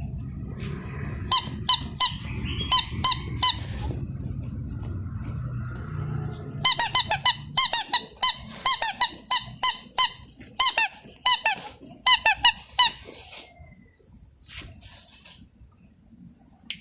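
A squeaky toy being squeezed over and over, giving short high squeaks in two runs: a handful early on, then a longer, faster series. A low rumble runs under the first few seconds and stops about six seconds in.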